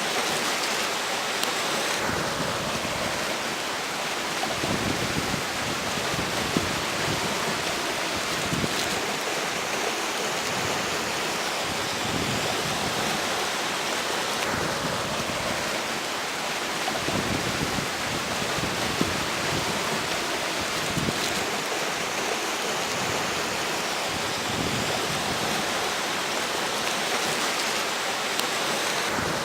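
River water rushing steadily over rocks, overlaid by gusts of strong wind that rumble on the microphone.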